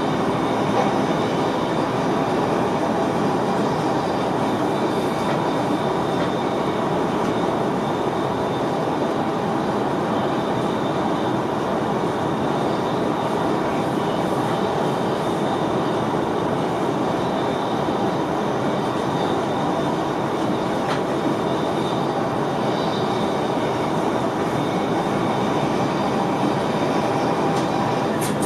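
NS VIRM double-deck electric train heard from inside the driver's cab while running along the line: a steady rolling rumble of wheels on rail, with faint high tones above it.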